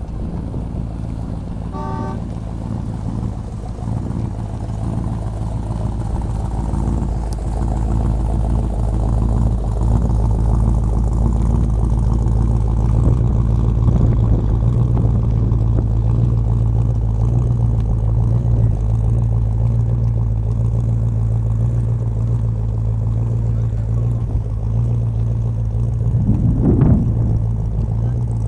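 Car engines running with a steady low rumble that grows louder about ten seconds in. A short horn toot sounds about two seconds in, and an engine revs briefly near the end.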